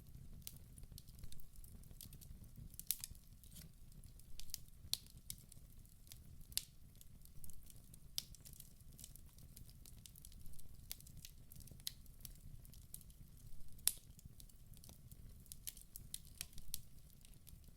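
Wood fire burning inside a fireplace: frequent sharp, irregular crackles and pops over a low, steady rumble of the flames, with one louder pop near the end.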